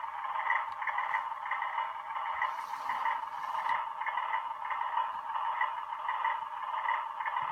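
Sound decoder in an Atlas HO-scale C424 model locomotive playing an Alco diesel idling, heard through the model's small speaker: a steady, thin engine sound with no bass and a regular soft chug.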